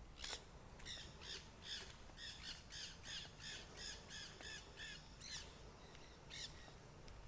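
Faint rapid series of harsh bird calls, about four a second for roughly five seconds, then a single call near the end.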